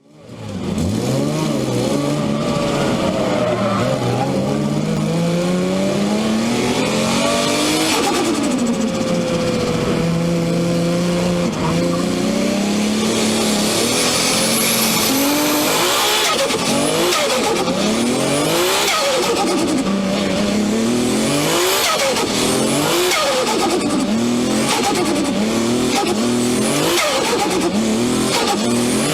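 Nissan Skyline R32's RB26 twin-turbo straight-six climbing steadily in pitch, holding a steady pitch for a few seconds, then revved over and over about every second and a half, with turbo flutter each time the throttle is let off.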